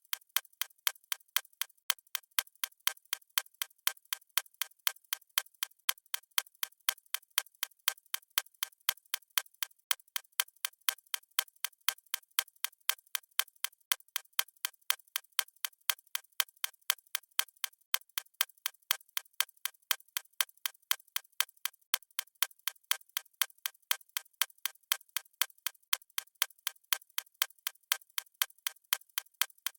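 Clock-ticking sound effect: a steady, evenly spaced run of crisp, high clicks with nothing low in them.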